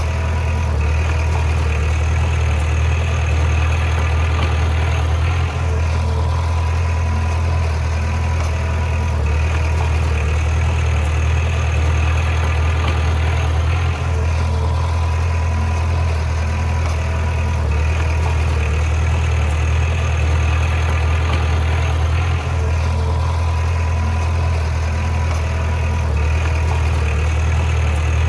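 Heavy construction machine's diesel engine running steadily with a deep low hum, its sound swelling and easing in a cycle that repeats about every eight seconds.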